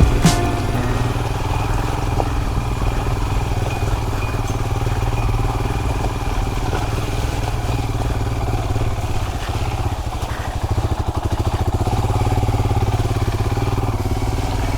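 Royal Enfield Himalayan's single-cylinder engine running steadily with a low, even thump as the motorcycle is ridden.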